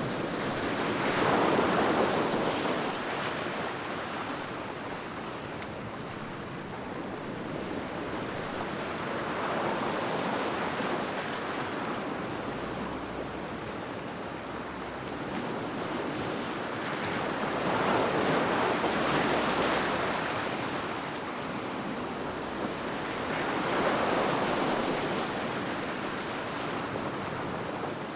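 Sea waves breaking and washing on the shore, a steady rush of surf that swells four times, every six to eight seconds.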